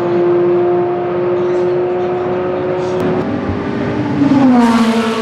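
IMSA sports car race engines running at high revs: a steady held engine note, then a louder car sweeps past near the end with its pitch falling.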